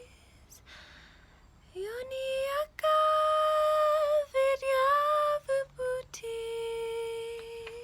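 A single voice humming long wordless notes in a slow, chant-like melody: a rising glide into a held note, a few short broken notes, then one long steady lower note.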